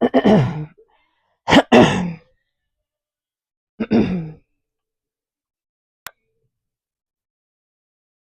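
Three short vocal sounds from a woman that are not words, spaced about two seconds apart, then a single sharp click about six seconds in.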